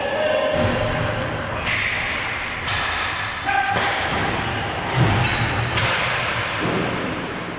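Game noise in a large hall: a steady hubbub with a few scattered thuds and knocks.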